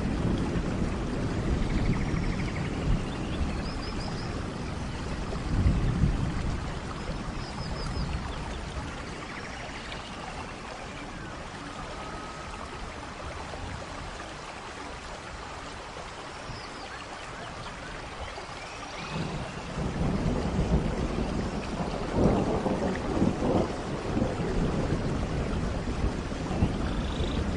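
Steady rain falling in a tropical forest, with a low rumble of thunder that fades away in the middle and builds again after about 19 seconds, and short bird chirps here and there.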